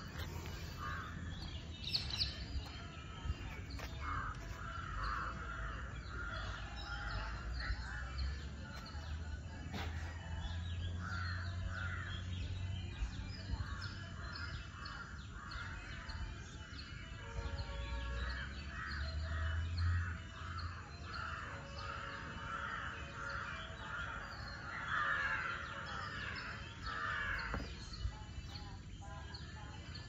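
Birds calling from the trees, short calls repeated several times a second in long runs, over a low steady rumble.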